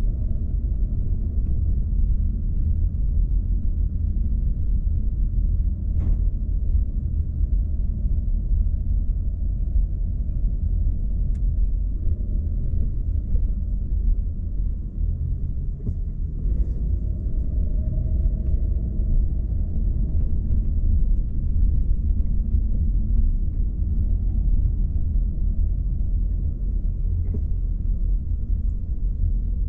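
A car driving at steady speed: a continuous low rumble of road and engine noise, with a couple of faint ticks.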